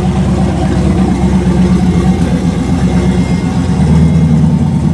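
A drag truck's engine running loud and close at steady low revs, with no rise in pitch.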